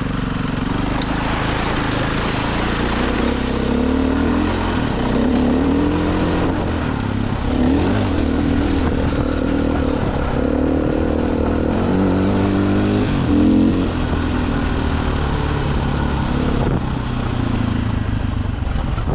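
Dirt bike engine running under changing throttle, its pitch rising and falling as it revs up and eases off.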